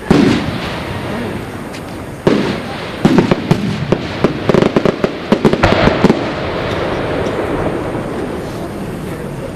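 Aerial fireworks exploding: a loud bang at the start and another about two seconds in, then a rapid crackling run of many sharp pops lasting about three seconds, settling into a steady rumbling haze.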